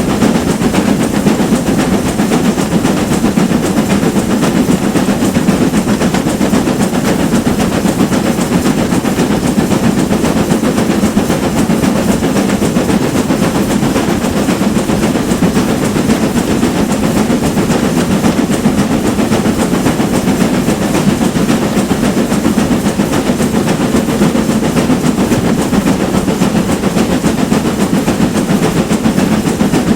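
Steam train hauled by a GWR Manor-class 4-6-0 locomotive running under way: a steady, loud rumble of the locomotive and the carriages on the track, without a break.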